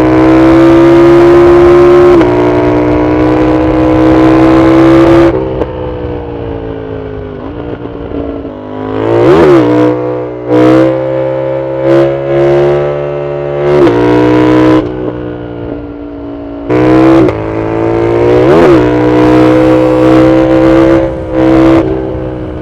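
Yamaha MT-07's CP2 parallel-twin engine on a loud full exhaust, accelerating hard with the pitch climbing and dropping at each upshift, then a series of short, sharp bursts of throttle.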